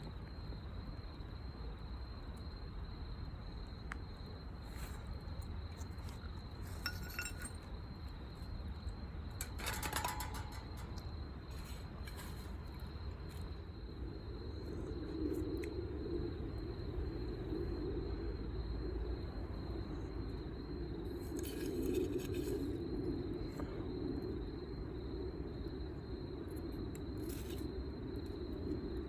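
Cookware and utensils clinking a few times, over a steady high trill of crickets. A low rushing sound comes in about halfway through and carries on.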